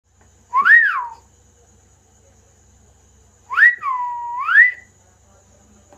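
Pet parrot whistling twice: first a short note that rises and falls, then a longer one that rises, drops to a lower held note, and climbs again.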